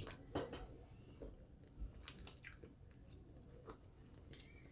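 Faint close-up chewing of tender rotisserie chicken: soft wet mouth clicks and smacks, a few more in the first second, then sparser.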